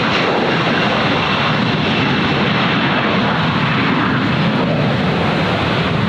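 A jet airliner's engines running, a steady, loud rush of noise with no break or change in level.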